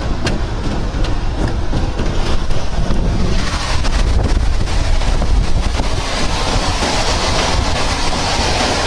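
Strong tornado wind buffeting the microphone: a dense rushing noise over a heavy low rumble, with a few sharp clicks in the first couple of seconds. The hiss grows stronger about three seconds in.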